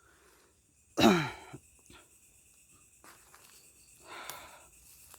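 A man sighing: a loud breathy, voiced exhale that falls in pitch about a second in, then a softer breath near four seconds.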